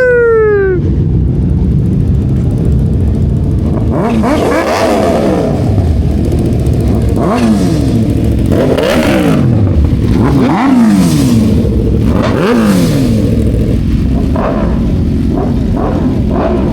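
Sport-bike engines revving over a steady engine rumble: several sharp rev-ups that rise and fall in pitch every second or two, with quicker, smaller blips near the end.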